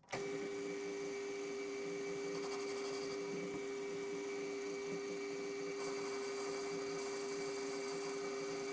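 Metal lathe running with a steady hum while a tool takes a chamfer cut on the front edge of a casting. A brighter hiss comes and goes twice.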